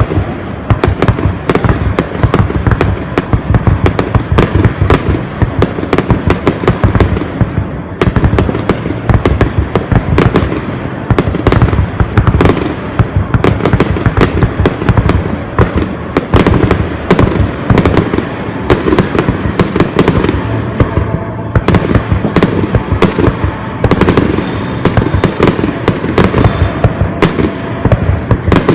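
A fireworks display: aerial shells bursting in a rapid, continuous barrage of bangs, several a second, with no pause.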